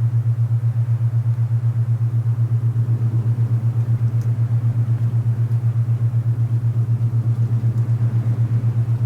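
Alpha binaural-beat tone: a steady low hum pulsing evenly about eight to ten times a second, over a soft rush of wind noise.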